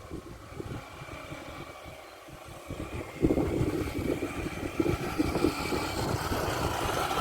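Motorcycle engine running, getting louder about three seconds in.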